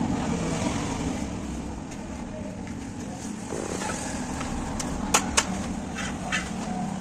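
Steady motor-vehicle engine noise, with two sharp clicks close together about five seconds in.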